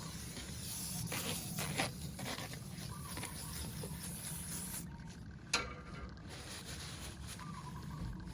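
Soft rubbing and scuffing of hand work on an aluminium cylinder head being resurfaced on sandpaper, with a sharp click about five and a half seconds in.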